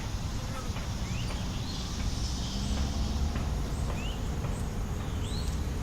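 Outdoor city ambience: a steady low rumble of distant traffic and wind, swelling a little in the middle. Over it a bird gives about four short rising chirps.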